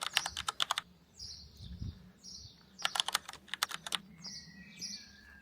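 Two short bursts of rapid clicking, about eight clicks a second, one at the start and one about three seconds in. Birds chirp between them.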